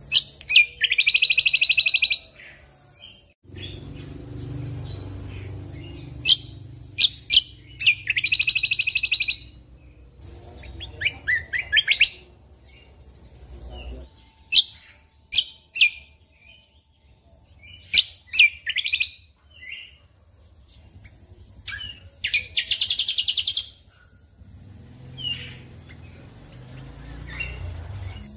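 Cucak kombo (kecial kombok) songbird singing loudly in repeated bursts: rapid trills of about a second and a half each, interspersed with sharp, high chipping notes. A low background hum runs under parts of the song.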